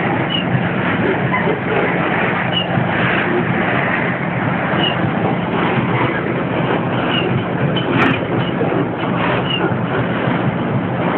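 Freight train running alongside loaded iron-ore hopper wagons: a steady rumble of wheels on rail over a low diesel drone, with a short high squeak about every two seconds and a sharp click about eight seconds in.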